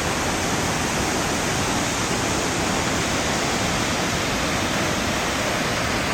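Waterfall in heavy flow: a steady, loud rush of falling water and spray.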